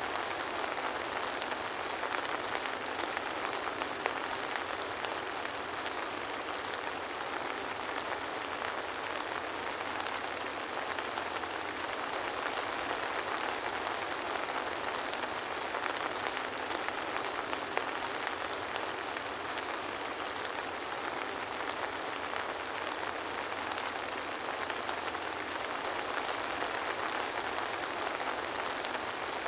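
Steady soft rain falling, an even patter of drops without thunder.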